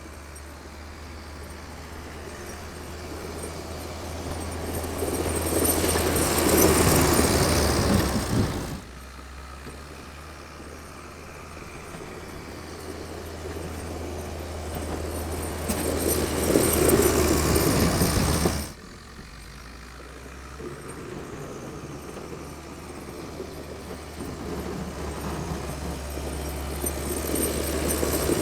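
Old Volvo tractor engine running steadily with a low hum while working snow. Three times the noise builds over several seconds to a loud peak, and twice it drops off suddenly, in cycles of about ten seconds.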